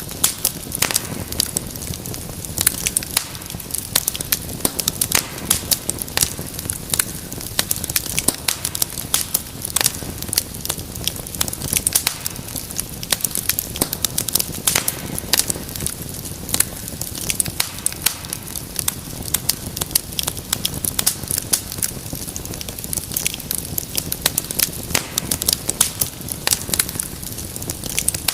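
Wood fire in a fireplace crackling and popping: many sharp irregular pops and snaps over a steady low rumble of flame.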